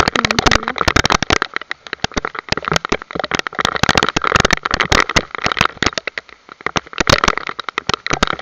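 Storm rain pelting the camera and its microphone in a dense, irregular crackle of sharp hits, loud and unbroken.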